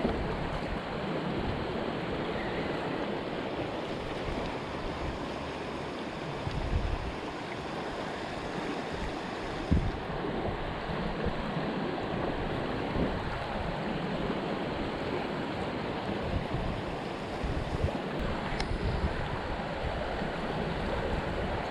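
Creek rapids rushing in a steady wash of water, with wind rumbling on the microphone now and then.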